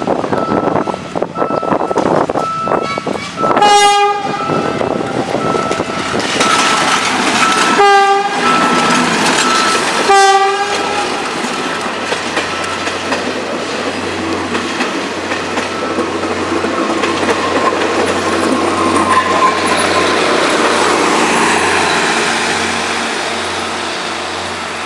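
GE diesel locomotive passing with a passenger train: three short horn blasts, the last two close together, over the clicking of wheels on rail joints. This is followed by the steady rumble and hiss of the coaches rolling by, which fades near the end. A repeating high beep sounds through the first half.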